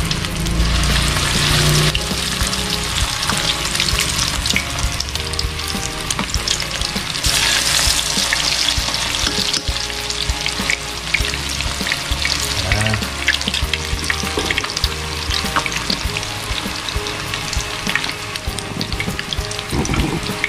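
Mackerel-and-mushroom patties frying in hot oil in a wok: a steady sizzle with many small crackles and pops from the oil.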